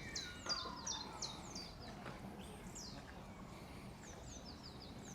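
Small songbirds calling: a quick run of short, high, downward-sliding chirps over the first second and a half, a lower falling whistle about half a second in, and a fainter run of chirps again from about four seconds.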